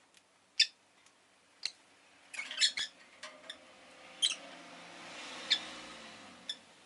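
Rosy-faced lovebird giving short, sharp, high chirps, single calls spaced a second or so apart with a quick flurry of several about two and a half seconds in. A faint swell of background noise rises and fades underneath in the second half.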